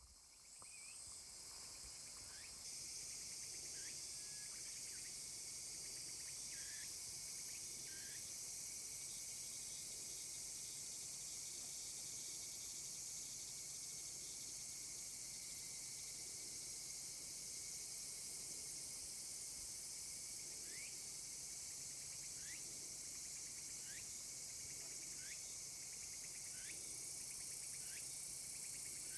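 A chorus of cicadas, a dense steady high-pitched shrilling that swells in the first few seconds and then holds. Short high chirps break in now and then.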